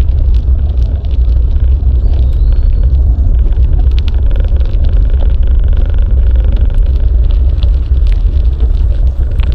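Wind buffeting an action camera's microphone during a bike ride: a loud, steady low rumble, with scattered light clicks and ticks over it.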